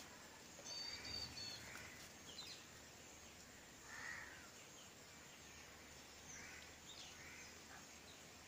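Near silence, with a few faint bird calls scattered through it.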